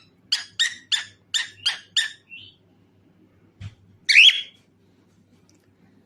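Cockatiel calling: a run of six quick chirps in about two seconds, then one louder, longer call with a rising whistle about four seconds in.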